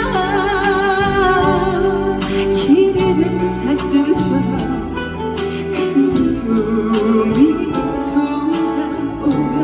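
Live female vocal singing a slow Korean ballad with band accompaniment, the voice holding a long note with vibrato at first; a steady drum beat comes in about two seconds in.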